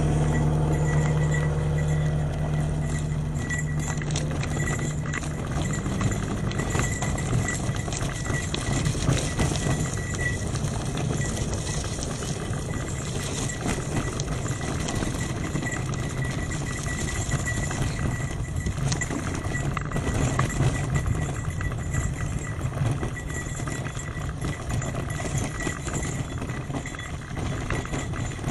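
Trek 8.3 DS hybrid bicycle rolling over a rough trail, with irregular rattling and clicking from the tyres and frame. A motor vehicle's engine idles during the first few seconds, then fades out.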